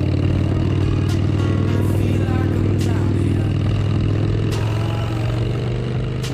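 Harley-Davidson Sportster bobber's V-twin engine running steadily under way, easing off slightly near the end, with a few sharp clicks.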